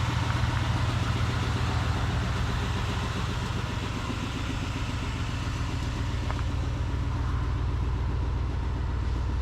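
Diesel pickup's 6.6-litre Duramax V8 turbo-diesel idling steadily, a low even rumble.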